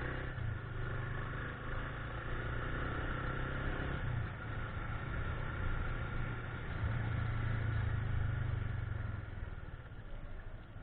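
Yamaha FZ25 motorcycle's single-cylinder engine running at low speed, with a steady low note that picks up a little about two-thirds of the way through and eases off near the end.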